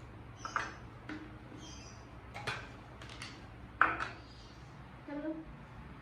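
Kitchenware being handled: a series of short, sharp knocks and clatters, the loudest about four seconds in, and a brief ringing clink near the end.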